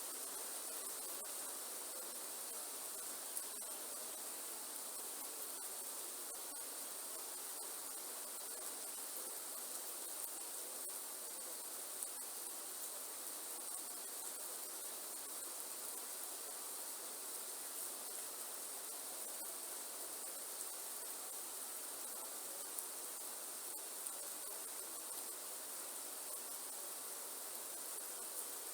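Steady rain falling in a rainforest, an even hiss with a few sharper drop ticks now and then, under a continuous high-pitched insect chorus that holds one steady pitch.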